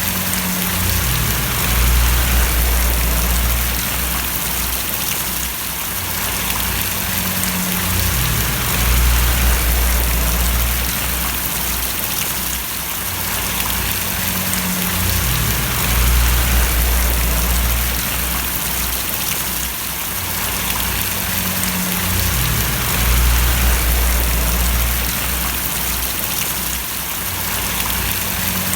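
Steady rain falling and splashing on a surface, a dense even hiss, with a low rumble underneath that swells and fades about every seven seconds.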